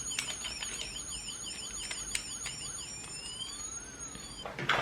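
Small toy electronic siren, a pressed Duplo siren brick, playing a high, fast warbling wail at about three cycles a second. Near the end it changes to slower, longer sweeps and then stops, with a brief clatter of plastic being handled.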